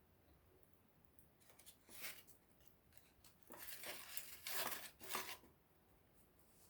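Small wood campfire crackling: a few faint pops, a short burst of crackling about two seconds in, then a denser run of crackles in the middle before it settles again.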